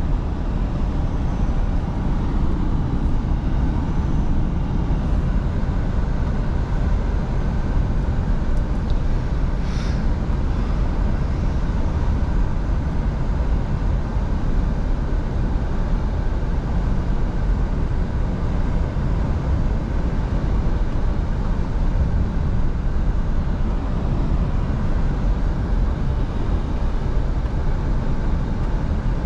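Scania V8 truck driving at a steady speed: a constant low engine drone mixed with road and wind noise, with no change in pace, and a faint short tick about ten seconds in.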